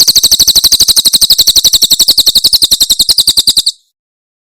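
Cililin bird singing its 'tembakan' burst: a loud, very fast, high-pitched trill of about a dozen evenly repeated notes a second, which cuts off abruptly near the end.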